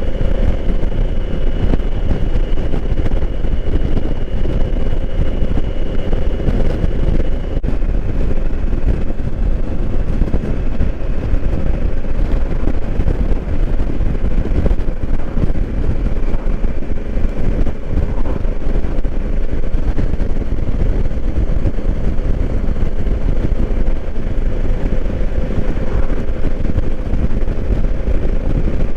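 Honda Africa Twin's 1,084 cc parallel-twin engine running steadily on the road, with wind rushing over the microphone. A faint high tone stops about eight seconds in.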